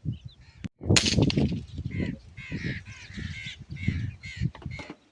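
Harsh bird calls repeating about every half second, over wind rumbling on the microphone.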